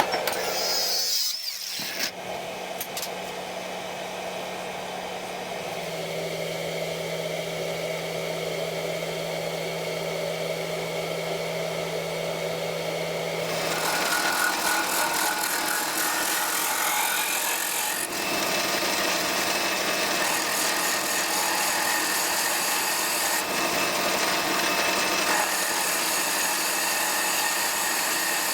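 Electric power tool running steadily with a constant motor hum while it works material, the hum dropping in pitch about six seconds in. The sound changes abruptly a few times.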